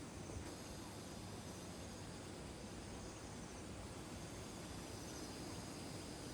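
Faint insect chirps, short high trills recurring every couple of seconds, over a steady low background rumble of evening outdoor ambience.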